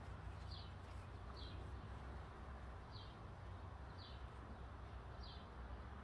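A bird calling repeatedly: five short, high notes about a second apart, each falling slightly in pitch, faint over a low steady background rumble.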